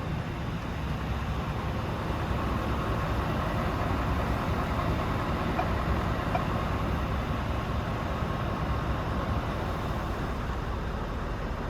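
Scania R520's V8 diesel engine idling steadily, with a faint higher note above its low, even running that grows a little louder about two seconds in.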